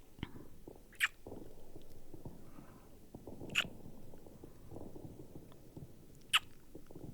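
Close-microphone ASMR kissing sounds: three sharp lip smacks about two and a half seconds apart. Low, uneven rumbling of muffled fireworks lies underneath.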